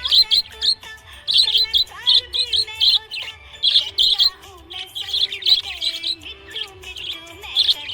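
Budgie chirping in rapid clusters of short, high chirps, several clusters a second, over a background music track with a sung or played melody.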